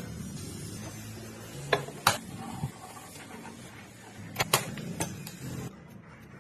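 A handful of sharp clicks and knocks, like small hard pieces being handled or set down, over a low steady hum.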